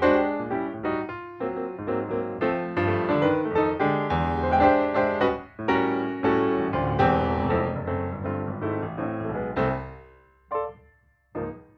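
Background music: piano playing a flowing line of chords and notes, fading out near the end, with two short struck notes just before it ends.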